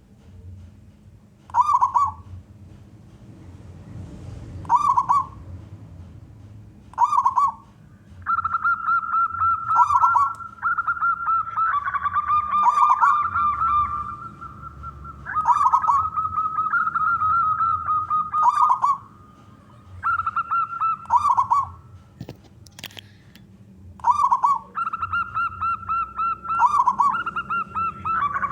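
Zebra doves (perkutut) cooing: at first a short coo about every two and a half seconds, then from about eight seconds in long, rapidly stuttering coos that overlap one another. A single sharp click comes about three-quarters of the way through.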